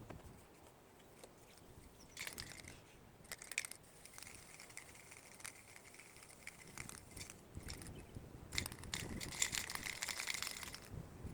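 Aerosol spray paint can spraying in two bursts of hissing, the second one longer, near the end.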